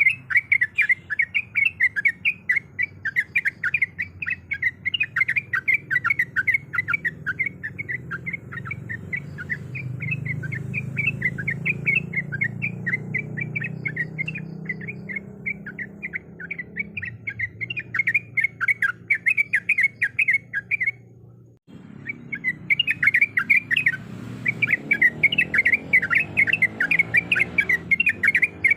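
Yellow-vented bulbul (trucuk) calling in a fast, continuous run of chattering chirps, the notes repeated several times a second. A lure recording for caged bulbuls. The calls cut out briefly about three-quarters of the way through, then resume.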